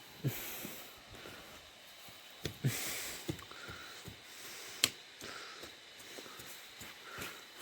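A few dull thumps and scraping rustles, with one sharp click about five seconds in.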